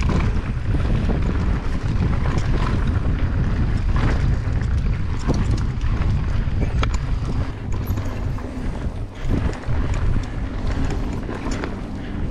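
Wind buffeting the microphone of a camera on a mountain bike riding a dirt trail, with a steady low rumble from the tyres. Scattered short clicks and rattles from the bike run through it.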